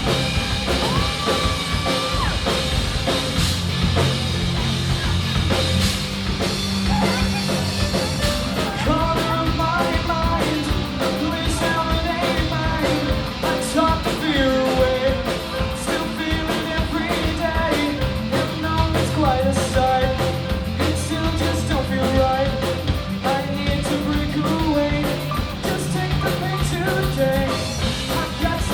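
Live rock band (drums, bass guitar, electric guitar and keyboards) playing a grunge-style song, with a lead vocal singing over it from about nine seconds in.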